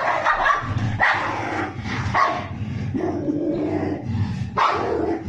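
Mioritic Shepherd dog barking and growling in a series of about five harsh bursts, during one of the episodes of snapping at his own tail and leg that his carers put down to hypothyroidism.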